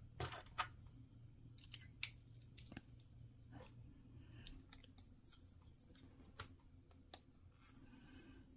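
Hobby nippers snipping plastic model-kit parts off the runner: faint, sharp clicks at irregular intervals, a few louder snips among softer ticks of plastic being handled.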